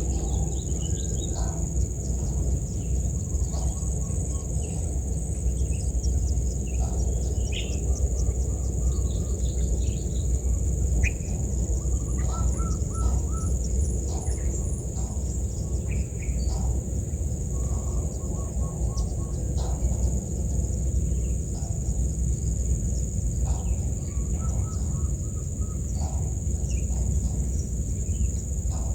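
Outdoor bird and insect ambience: short bird calls and chirps come scattered throughout over a steady, high-pitched insect drone. A constant low rumble runs underneath.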